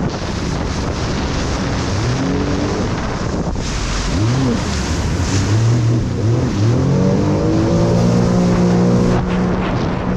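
Jet ski engine revving up and down, then held at a steady high pitch at speed, dropping away near the end. Heavy wind noise on the microphone and rushing water run throughout.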